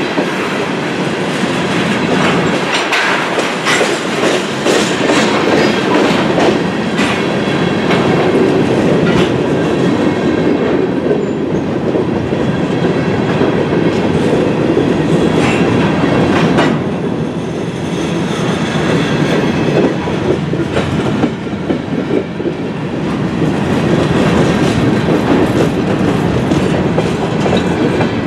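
Freight train's covered hopper cars rolling past close by: a steady rumble of steel wheels on rail, with clicking as the wheel sets pass over the rail.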